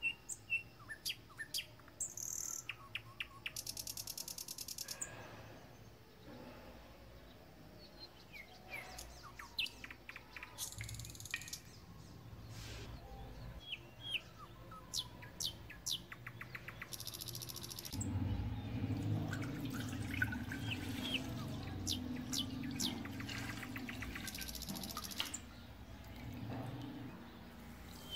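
Birds chirping and calling: many short chirps and several quick buzzy trills. A low rumble joins in from about two-thirds of the way through and fades near the end.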